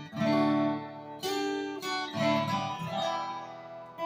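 Acoustic guitar strummed, chords ringing out with a new strum about every second.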